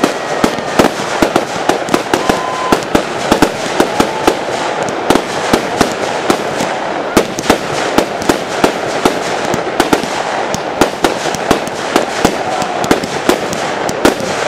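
Fireworks display firing and bursting in rapid succession: a dense barrage of sharp bangs, several a second, with no let-up.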